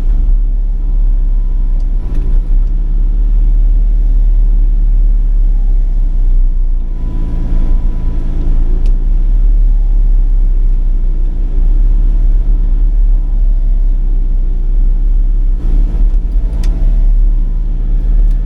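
Sany 35 mini excavator's diesel engine running steadily, a loud, even low drone.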